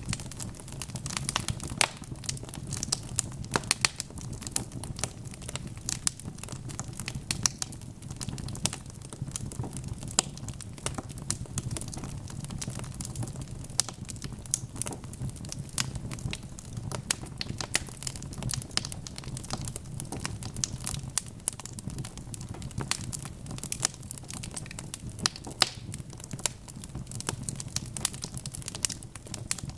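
Wood fire burning in a fireplace, with a constant run of irregular sharp crackles and pops from the logs over a steady low rumble.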